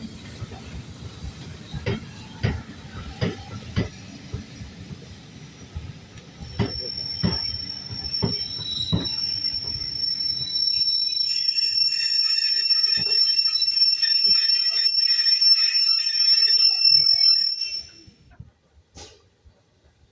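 Railway carriage wheels clicking over rail joints at an even rhythm, then a high-pitched metallic wheel squeal that sets in and grows louder and shriller before cutting off suddenly near the end.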